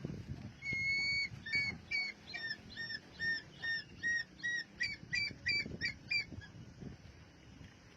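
An eagle calling: one long high whistled note, then a rapid run of short, slightly down-hooked whistled notes at about three a second that stops abruptly after several seconds.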